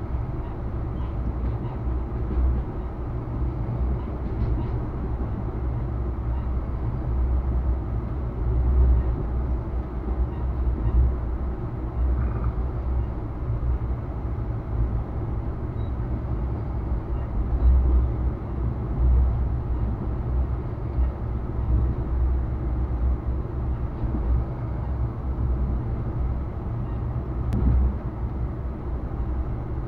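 Passenger train running, heard from inside an air-conditioned sleeper coach: a steady low rumble that swells and eases slightly.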